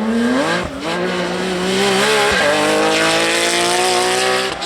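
Porsche 911 GT3 rally car's flat-six engine accelerating hard at high revs, its pitch climbing steadily with quick upshifts about a second and two and a half seconds in.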